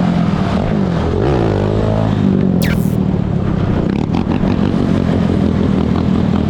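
Dirt bike engines running, with one engine's pitch sweeping up and down about a second in. A short high squeal falls in pitch near the middle.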